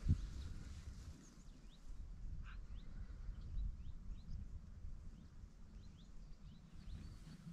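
Faint, brief high chirps of small birds, short falling notes scattered through, over a steady low rumble. A single thump at the very start.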